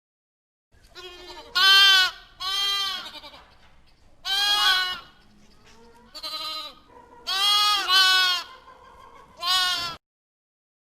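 A goat bleating about seven times in short, quavering calls, with brief gaps between them.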